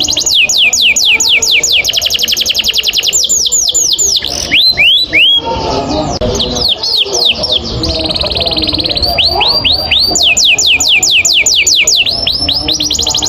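Domestic canary singing long, rapid rolling trills of repeated downward-sweeping whistled notes. Near the middle the rolls break for a few slower notes and a buzzy held passage before the rapid rolls start again.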